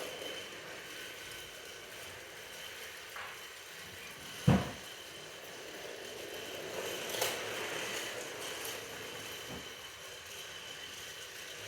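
Steady mechanical running noise with one sharp, loud knock about four and a half seconds in and a few fainter clicks.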